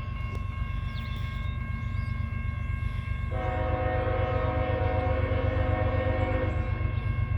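CSX freight train's diesel locomotive approaching with a building engine rumble, its horn sounding. A louder, lower horn blast starts about three seconds in and holds for about three seconds.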